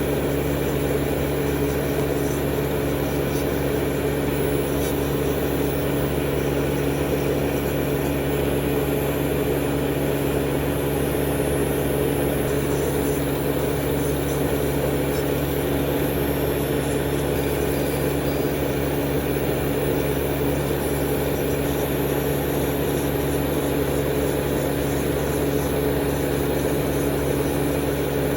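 Steady electric motor hum from manicure equipment, keeping one pitch throughout with no starts or stops.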